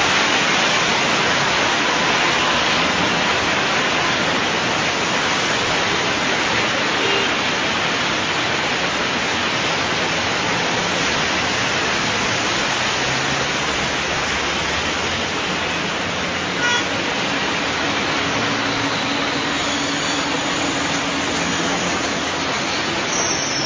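Heavy rain pouring down in a steady, even hiss, with a faint vehicle engine hum joining in the second half.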